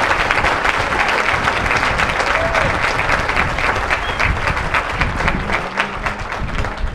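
Audience applauding and cheering for an award winner, with scattered shouts. The clapping eases off gradually toward the end.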